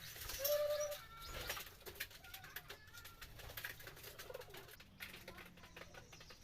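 Domestic pigeons cooing, a short call about half a second in the loudest, with fainter calls and scattered light clicks after it.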